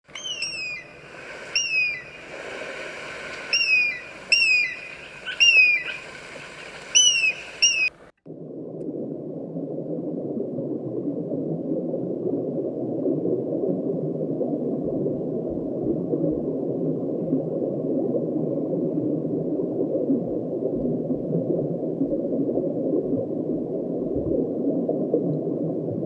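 A bird gives about nine short, high calls, each sliding quickly down in pitch. About eight seconds in they cut off abruptly and give way to a steady low rushing noise with no calls in it.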